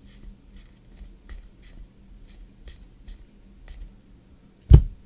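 Trading cards being flipped one after another off a stack, a soft papery flick about twice a second, with a faint low hum underneath. Near the end comes a single loud thump.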